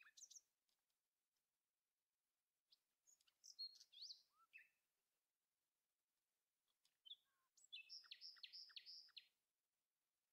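Faint birdsong: scattered chirps and sweeping whistled notes, then a quick run of about five repeated notes near the end.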